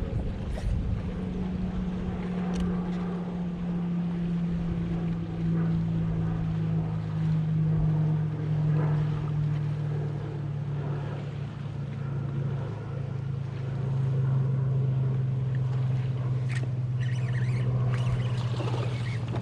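A boat motor running steadily, its hum drifting slowly lower in pitch, with a few brief clicks.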